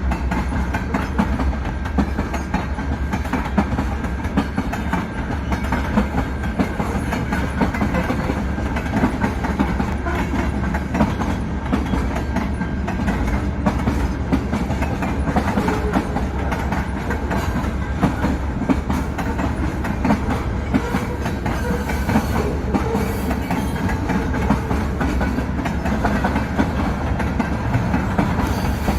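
A CN mixed-freight manifest train's cars rolling past, with a steady clatter of wheels clicking over the rail joints.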